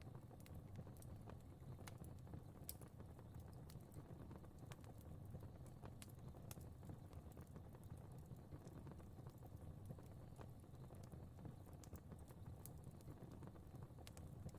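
Faint crackling fire: a soft, steady low rumble of flames with small, sharp crackles and pops at irregular intervals.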